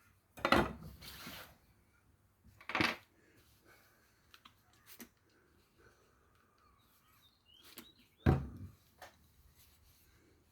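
Handling noises on a workbench: three brief loud knocks and scrapes, about half a second in, about 3 s in and about 8 s in, with small clicks and taps between them.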